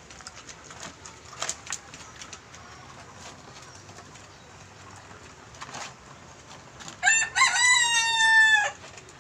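A rooster crowing once, loud and clear: a few broken notes run into one long held note that drops off at the end. Before it, a few faint clicks and taps.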